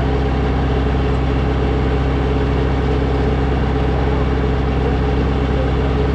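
Snowblower engine running at a steady speed, with no change in pitch or loudness.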